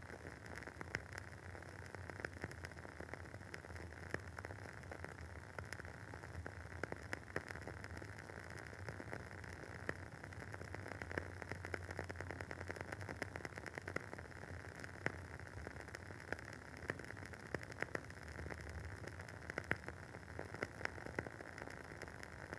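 Wooden wick of a WoodWick candle burning with a dense, irregular crackle: many small pops and ticks over a faint steady hiss.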